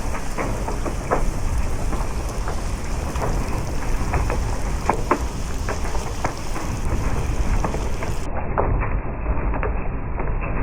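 Heavy rain in strong wind: a steady hiss over a low rumble, with scattered sharp taps of drops striking nearby surfaces.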